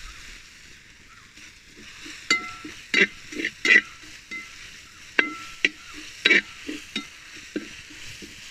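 Sliced onions and curry leaves sizzling in oil in a large metal uruli pot, stirred with a perforated metal skimmer. From about two seconds in, the skimmer scrapes and knocks against the pot at irregular moments, some knocks leaving a brief metallic ring, over the steady hiss of frying.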